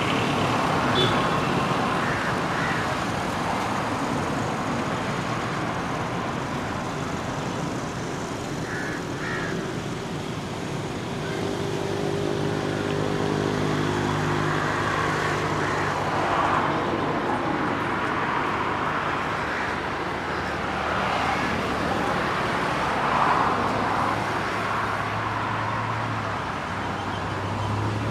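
Steady motor-vehicle noise, like road traffic or an engine running close by, with a low hum that changes pitch now and then.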